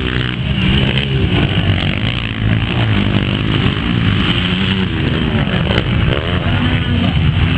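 Motocross dirt-bike engines revving, their pitch rising and falling as the bikes race, with a falling sweep about six seconds in.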